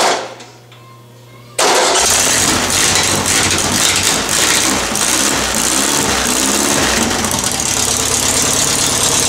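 Volkswagen 1600 dual-port air-cooled flat-four engine on a test stand: a brief burst right at the start dies away, then about a second and a half in the engine catches and runs loud and steady, its speed rising and falling a little. The filmer calls this a cold start.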